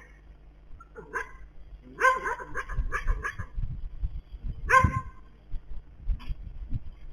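An animal barking in short calls: one about a second in, a quick run of several between two and three and a half seconds, and a single loud one near the five-second mark, over a low steady hum.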